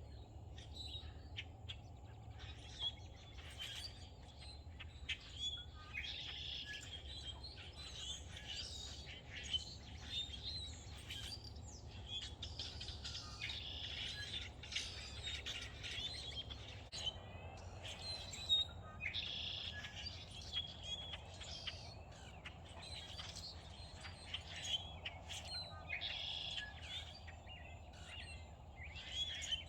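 Several songbirds chirping and singing, short calls and song phrases overlapping throughout, over a steady low hum.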